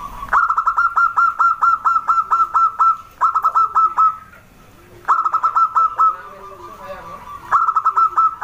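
Zebra dove (perkutut) cooing: four runs of quick, clipped notes at about five a second, the first run the longest, with short pauses between runs.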